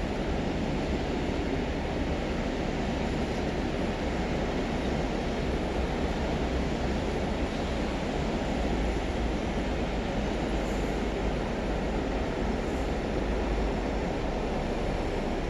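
Freight train rolling past, a steady, unbroken noise of wagon wheels running on the rails.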